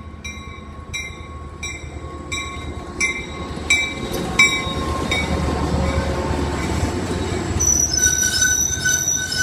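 Commuter train arriving at a station. A bell rings about three strikes every two seconds and fades out about halfway. The train's rumble builds, and a high, steady wheel squeal sets in near the end.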